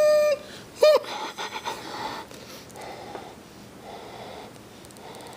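Steady electronic warning tone from the Volkswagen Passat's dashboard that cuts off about a third of a second in, followed by a short beep just under a second in, then faint clicks and handling noise.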